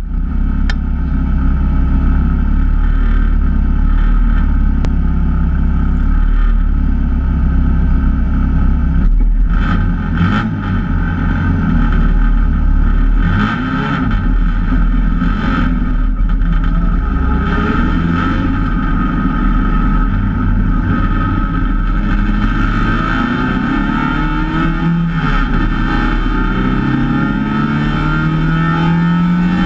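MGA race car's four-cylinder engine heard from the open cockpit, running at low revs while the car waits in the pit lane, then revving up as the car pulls out and accelerates onto the track in the last several seconds.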